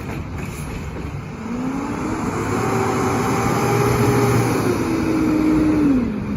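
McNeilus side-loader refuse truck's engine revving up and holding at raised revs for a few seconds, then dropping back to idle near the end.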